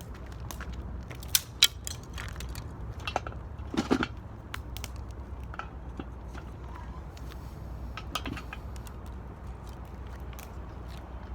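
Dry firewood cracking and snapping in irregular sharp pops, the loudest a little over a second in and a cluster about four seconds in, over a steady low rumble.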